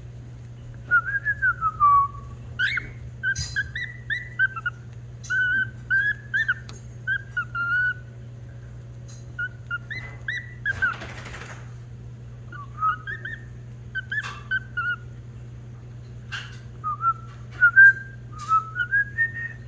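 Male cockatiel whistling its song: a string of short, warbling whistled notes that rise and fall, with a pause near the middle and a brief rustle about 11 seconds in. A steady low hum runs underneath.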